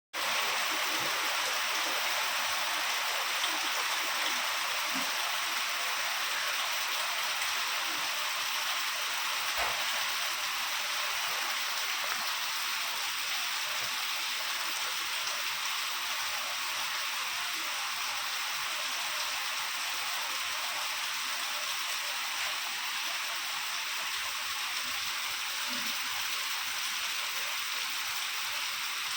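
Steady rain falling, an even hiss of drops on surfaces that keeps up without a break.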